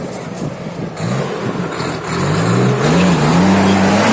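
A heavy truck's engine working hard over rough ground, its pitch rising and falling as it revs, growing louder about halfway through as the truck comes closer.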